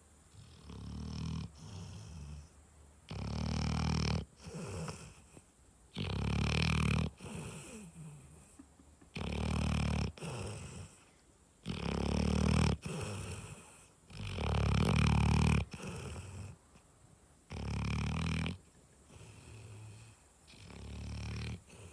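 Cane Corso dog snoring while asleep: a loud snore about every three seconds, with quieter breaths in between.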